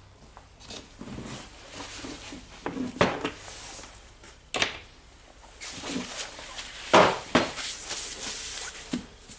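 Metal tool parts and hand tools clicking and knocking against each other and the bench as a rotary hammer is handled during reassembly; a few sharp clinks, loudest about seven seconds in.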